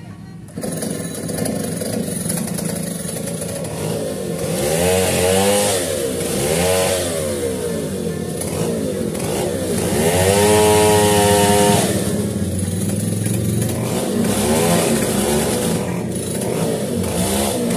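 A small petrol engine revved up and down over and over, rising and falling in pitch. It is held at high revs for about two seconds near the middle.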